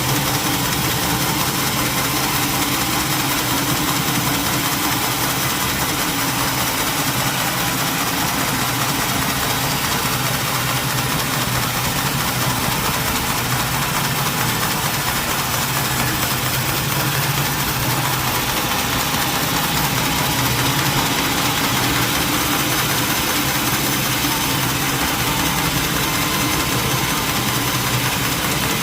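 Sawmill machinery running steadily: an engine-driven saw with a constant low hum and hiss that hardly changes in level.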